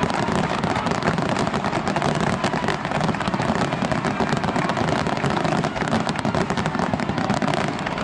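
Fireworks display in full barrage: a dense, unbroken run of rapid crackling and bursting shells.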